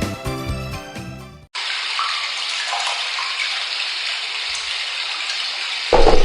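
Background music fading out, then running water: a steady rushing pour, with a louder surge just before the end.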